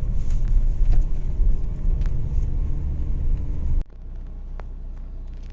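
Road vehicle driving: a steady low engine and road rumble with occasional knocks. It cuts off suddenly about four seconds in, leaving a quieter steady low hum.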